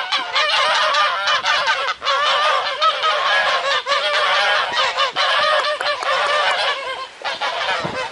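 A flock of geese honking and cackling together, many calls overlapping without pause, a loud noise of agitated birds.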